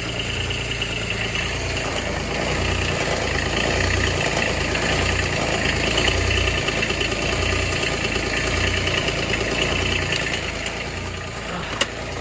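Kubota RTV900's three-cylinder diesel engine idling just after a cold start at −8°F on partly gelled summer fuel, with a steady low throb that swells a little in the middle. A single sharp click shortly before the end.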